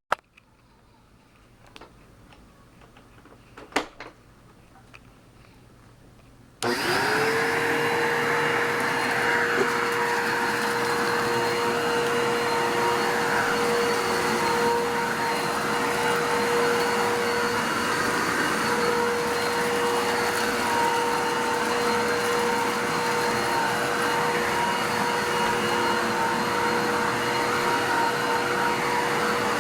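A few sharp clicks, then after about seven seconds a Bissell 3760-1 vacuum cleaner switches on abruptly. Its motor spins up within a moment to a steady whine over a loud rush of air, and keeps running.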